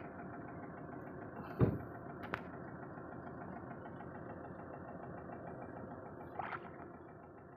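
Off-road 4x4 engine idling steadily, growing a little fainter near the end, with a single thump about a second and a half in.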